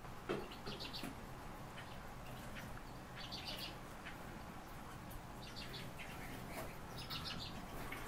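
Small caged birds chirping in four short bursts of quick high chirps, a couple of seconds apart, with a single light knock just after the start.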